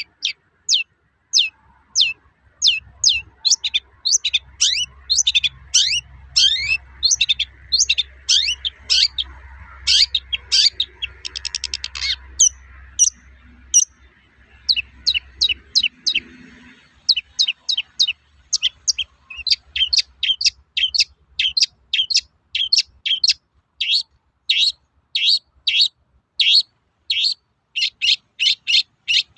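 Long-tailed shrike (cendet) singing its 'toet-toet' song: a long run of short, sharp, high notes, two to three a second, with a brief pause about halfway through. A faint low hum sits under the first half.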